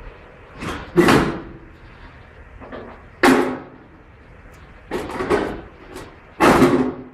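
About four loud bangs, one to two seconds apart, each with a short ringing tail.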